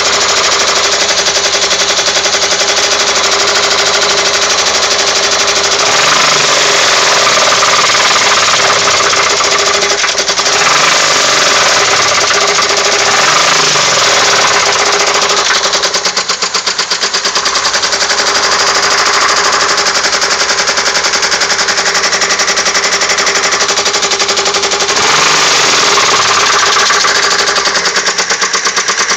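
2002 Pontiac Grand Am engine running with a loud, rapid, steady knock, revved up and back down a few times. The owner traces the knock to cylinder 4; it persists after the lifters and rods were replaced.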